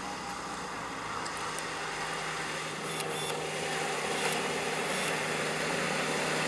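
A car engine running at low speed, a steady hum that slowly grows louder as the car draws near.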